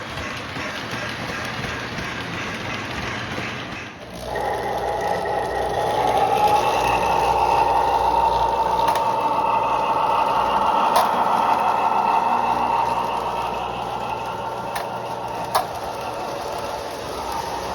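Lionel O-gauge Baltimore & Ohio Budd RDC model train running on its track: a steady motor whine with rattling wheels. About four seconds in the sound changes abruptly to a louder, steadier whine, with a few sharp clicks later on.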